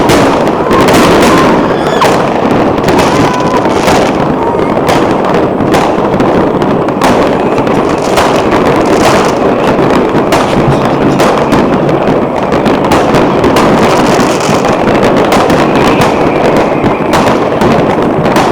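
New Year's fireworks going off in a dense, continuous barrage: overlapping bangs and crackling with no let-up. A few short whistling rockets sound in the first few seconds.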